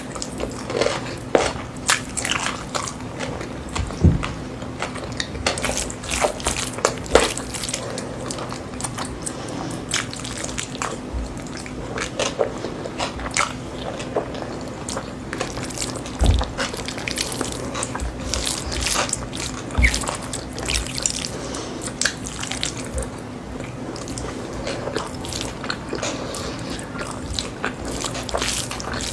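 Close-miked eating: irregular wet chewing, biting and mouth smacks, over a steady low hum.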